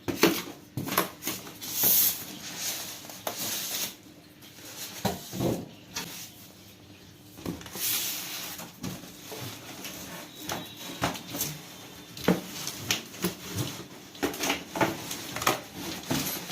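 Scattered light knocks, clicks and rustling from household objects being handled, irregular and with no steady rhythm.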